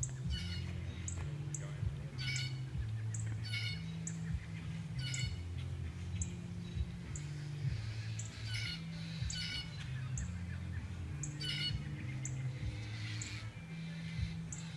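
Birds squawking, a harsh call repeated roughly once a second, with short high chirps in between and a low hum that shifts in pitch underneath.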